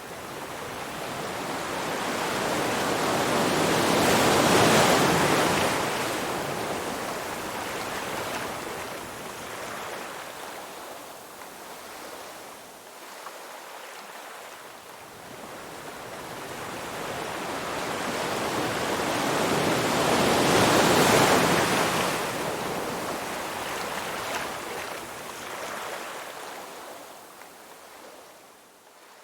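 Ocean waves washing onto a shore: two big waves swell up and break, about 5 seconds and about 21 seconds in, each hiss of surf then slowly drawing back.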